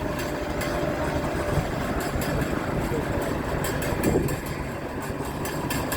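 Tractor engine running steadily, a continuous low drone heard while riding along.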